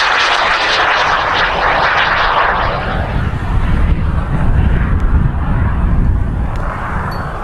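High-power rocket motor burning as the rocket climbs away: a loud hissing roar that thins out over the first three seconds or so, leaving a low rumble.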